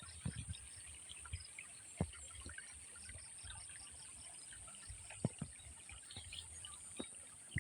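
Faint rice-paddy ambience: water trickling, with bird chirps over a steady high-pitched drone and a few soft knocks.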